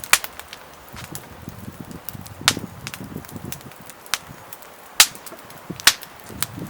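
Wood burning in a small camp fire pit, crackling with a few sharp pops.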